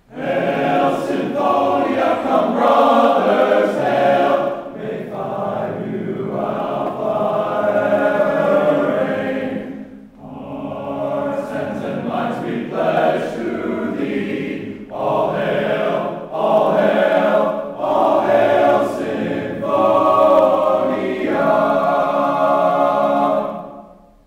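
Several male voices singing a hymn together, starting abruptly and holding on to near the end, with a brief break between phrases about ten seconds in.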